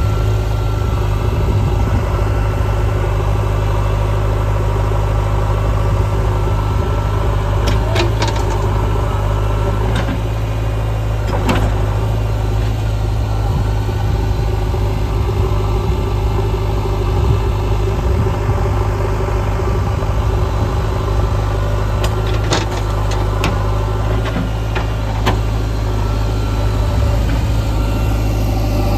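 Heavy diesel engine running steadily, with a few short knocks and clanks scattered through.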